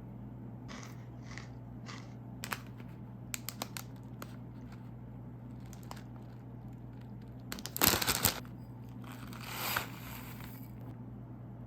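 Plastic snack packet crinkling and tearing. There are soft rustles and a few small clicks, then a loud crackly tear about eight seconds in, followed by a longer rustle.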